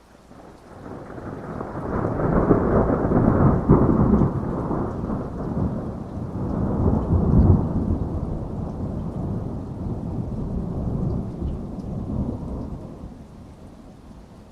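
A long roll of thunder during heavy rain. It builds over a couple of seconds, peaks twice, then rumbles slowly away, with steady rain underneath.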